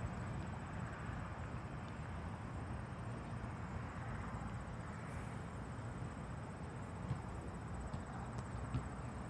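Steady outdoor background noise with a low rumble, and a faint high, steady insect-like trill over it.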